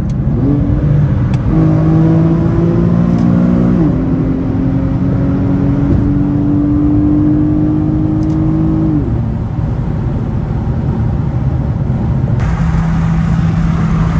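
Infiniti G37's 3.7-litre VQ V6 breathing through a muffler-deleted, straight-piped exhaust while accelerating. The note climbs, drops at an upshift about four seconds in, and holds steady. About nine seconds in the throttle eases off and it settles into a steady low drone.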